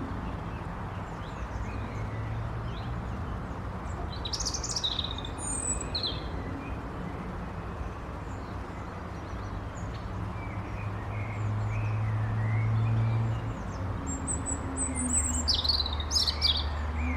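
Small birds chirping and calling in woodland, short high chirps in two clusters, about four seconds in and again near the end, with fainter calls in between, over a steady low hum.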